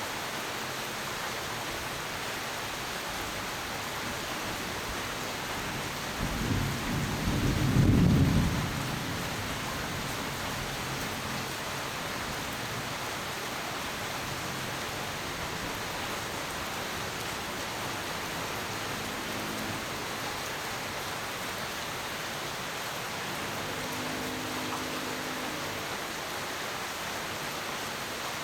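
Steady rain hiss with one clap of thunder rumbling in about six seconds in, loudest about two seconds later and fading out within a second after that.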